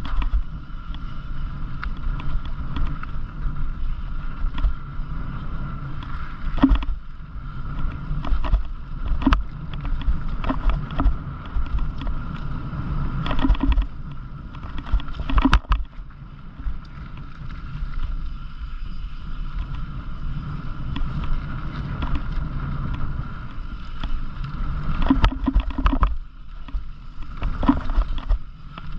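Bike being ridden over a rough trail: a steady low rumble of tyres and wind on the camera microphone, with frequent sharp knocks and rattles from the bike over bumps.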